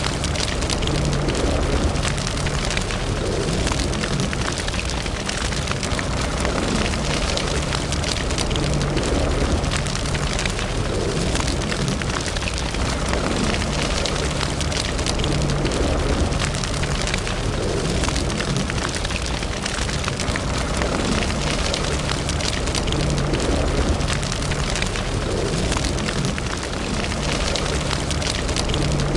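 Wood fire burning in a fireplace: a steady low rush of flame with frequent small crackles and pops throughout.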